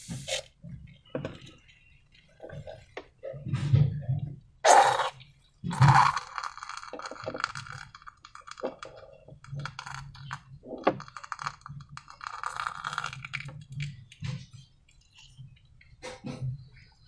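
Close-up handling sounds of slime-making with balloons: irregular clicks, taps and short rustling, crackling bursts, with a louder knock about five seconds in.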